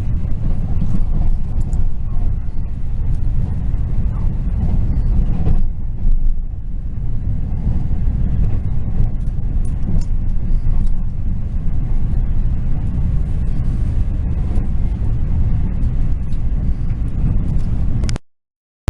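Steady low rumble of a moving passenger train, heard from inside the carriage, that cuts off suddenly near the end.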